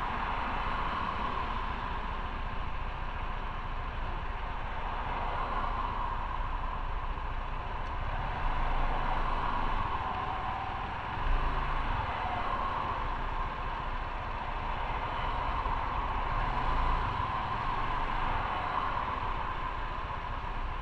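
Motorcycle riding on the road: steady engine and wind noise, with a brief louder bump about eleven seconds in.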